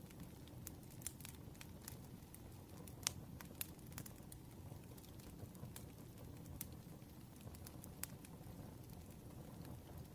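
Wood fire crackling: irregular sharp pops and snaps over a low steady rumble, with a louder pop about three seconds in.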